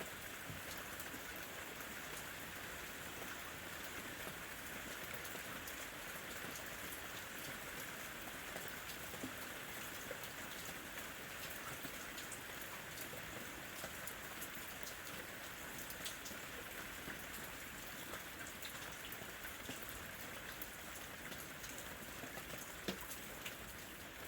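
Steady rain falling, with individual drops ticking close by here and there.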